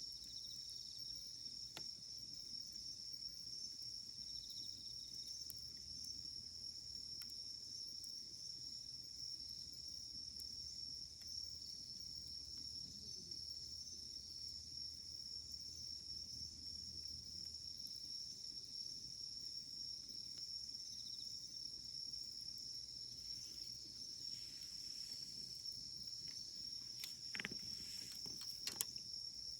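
Steady high-pitched chirring of insects, with a wood campfire giving sparse faint crackles. A few louder pops come near the end.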